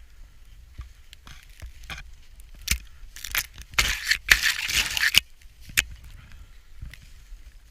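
Snow crunching and rustling in a series of noisy bursts, loudest for about a second and a half midway, over a low rumble.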